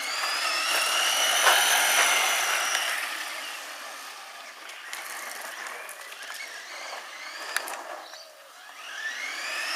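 Brushed electric motor and gears of a 1/10 scale RC monster truck whining up in pitch as it accelerates on a speed run, then fading as it gets farther off. Near the end the whine rises again as it makes another pass.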